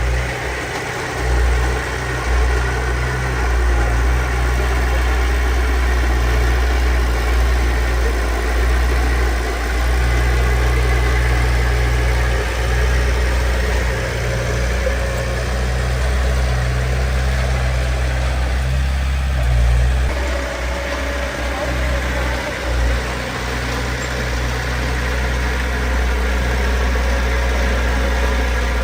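Diesel engine of heavy earthmoving machinery running steadily with a deep low drone; its note shifts briefly about twenty seconds in.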